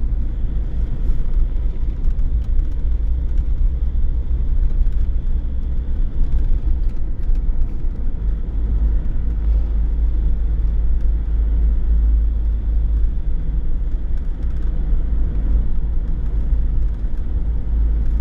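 Car being driven: a steady, loud rumble of road and engine noise.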